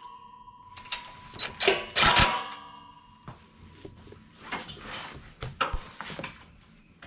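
Scattered sharp clicks, knocks and rattles of hand tools and metal parts being handled during mower repair, busiest about two seconds in and again in the second half. A faint steady high tone sounds through the first three seconds.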